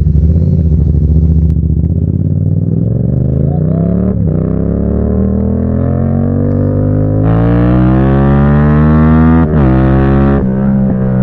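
Yamaha MT-07's 689 cc CP2 parallel-twin engine through an aftermarket exhaust with the baffle removed, accelerating hard: the revs climb, drop sharply on an upshift about four seconds in, climb again for about five seconds, and drop on another upshift near the end.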